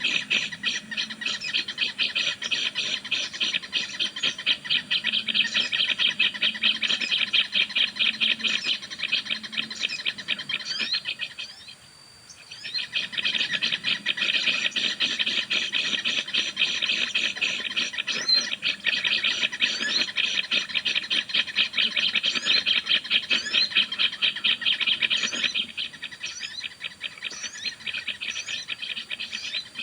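A fast, dry rattling bird call, a dense run of rapid clicks with thin high chirps above it. It stops for about a second after twelve seconds in, starts again and softens near the end.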